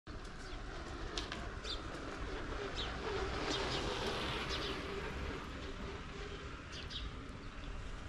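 Outdoor morning ambience: small birds give short chirps here and there over a steady low background noise.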